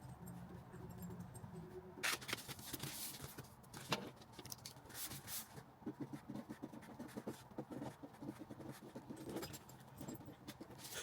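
Paper crinkling and rustling with small clicks and taps as gift items, paper and a gift bag are handled, in a few short bursts.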